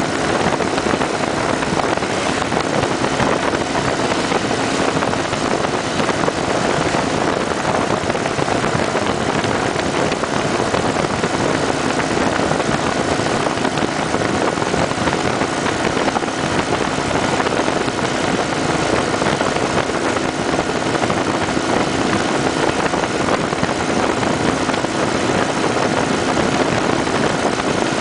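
Kawasaki Vulcan 900 Custom SE's V-twin engine running at a steady cruise, under a loud, even rush of wind and road noise that does not let up.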